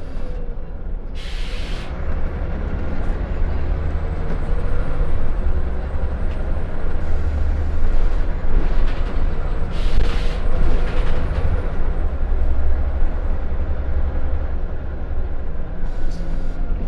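Scania L94UB Wright Solar single-deck bus heard from inside the cabin while moving: a steady deep engine and road rumble. Short hissing bursts come through about a second in, around seven and ten seconds in, and near the end.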